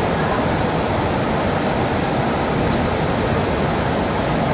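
A wide waterfall rushing steadily: an even, unbroken wash of falling water.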